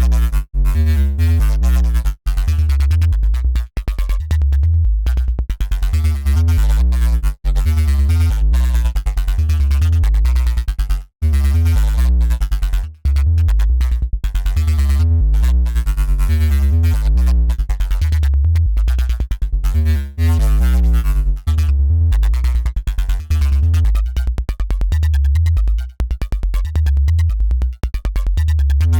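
Dirty FM synth bass riff from a patch built in Bitwig's Polygrid, playing in a loop at 140 BPM: a heavy, rhythmic bass line with short gaps as the pattern repeats. The tone turns grainier over the last few seconds.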